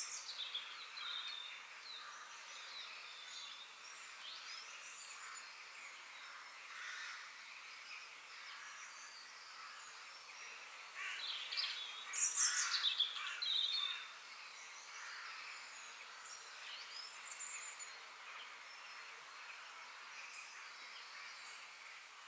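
Forest birds chirping and calling, several overlapping short notes and whistles over a faint steady background hiss, with a louder flurry of calls about halfway through.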